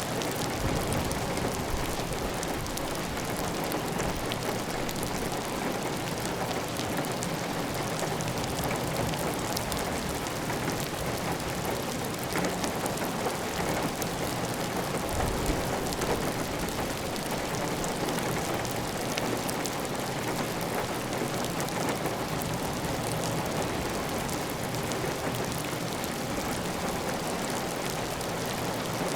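Heavy rain falling steadily on a clay tile roof, a dense even patter of drops with water running off the roof edge.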